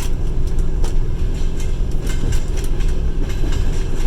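Passenger train running along the track, heard from inside the carriage: a steady low rumble from the wheels on the rails, with irregular sharp clicks and rattles from the wheels over the rail joints.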